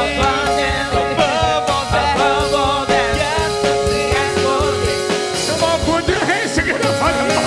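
Church praise team singing a gospel praise song, with held instrumental chords and a drum beat underneath.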